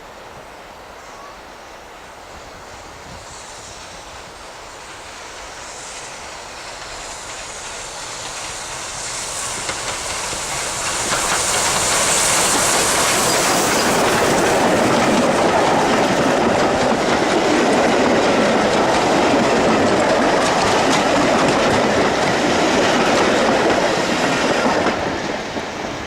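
Caledonian Railway 0-6-0 steam locomotive No. 828 and its train approaching and passing close by, the wheels clattering over the rail joints. The sound builds over about ten seconds, stays loud while the train goes by, and drops away near the end.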